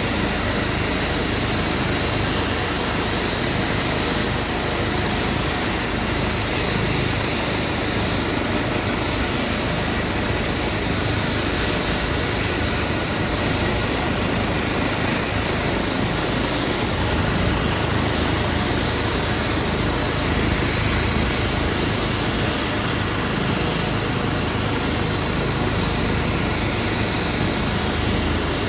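Airbus EC135 P2 helicopter running steadily, with the even whine and rush of its twin turbines and rotors.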